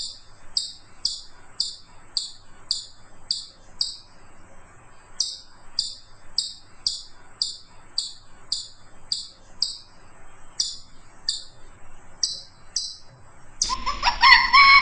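An animal's short, high-pitched chirps, repeated about twice a second in runs broken by brief pauses. Near the end a different, louder animal call starts, with a wavering pitch.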